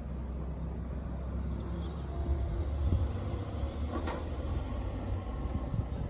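Road traffic: a large motor vehicle running past, a steady low engine rumble.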